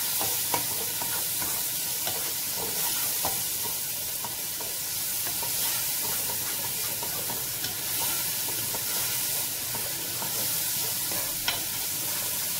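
Onion-tomato masala sizzling in a non-stick pot as a spatula stirs and scrapes it, frying it down (bhuna) with a splash of water. A steady hiss with scattered light knocks of the spatula against the pot, one sharper knock near the end.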